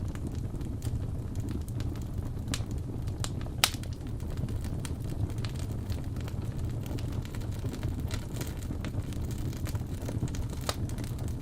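Wood fire crackling in a fireplace: a steady low rumble of flames with scattered sharp pops, one louder pop a little under four seconds in.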